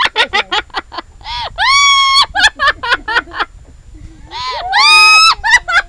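Pet parrot making a rapid run of short clicking chirps and two long, shrill screeching calls held at a steady pitch, one about 1.7 s in and one near the end.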